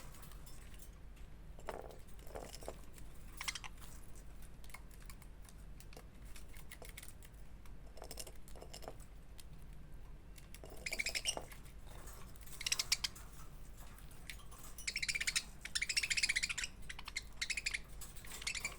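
Budgerigars chirping and chattering in several short bursts, mostly in the second half, with faint scattered ticks and taps before them.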